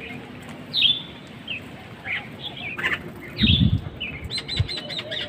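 Small birds chirping repeatedly in short, high calls, with a quick run of chirps near the end. A brief low flutter a little past the middle, like wings flapping.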